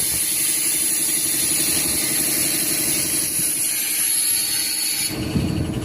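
Compressed air hissing steadily from a pneumatic tyre-press jack over an engine running with a fast, even pulse; the hiss stops about five seconds in.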